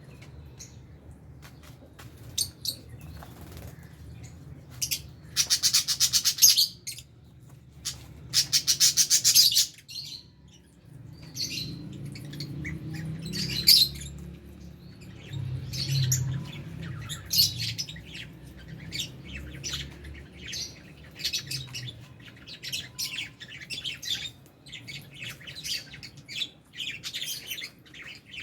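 A flock of lovebirds and budgies chirping and chattering in short high calls, with two loud runs of rapid pulses about five and eight seconds in. A low steady hum runs underneath.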